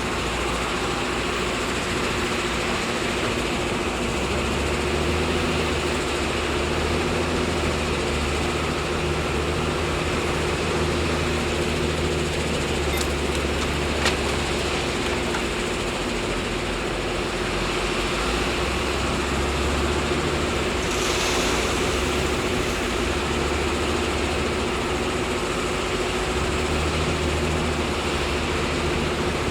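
Diesel engine of heavy earthmoving machinery running steadily: a low rumble with a steady whine over it, and one sharp click about halfway through.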